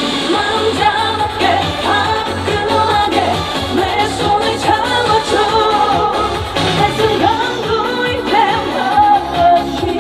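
A woman singing a Korean trot song live over loud amplified backing music with a steady beat.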